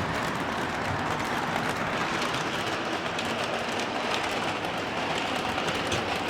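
O scale model train running on the track: a steady rolling rumble of wheels and motor with faint scattered clicks.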